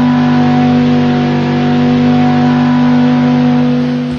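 Recorded V10 engine sound held at steady revs, a loud even note that does not rise or fall in pitch.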